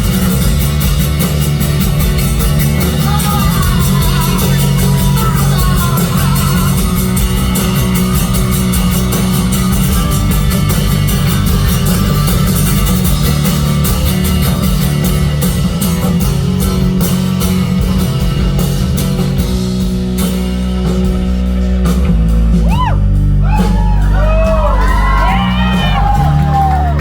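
Live rock band playing a loud instrumental passage with electric guitar and a heavy low end. Near the end, wavering, gliding high notes rise over the band.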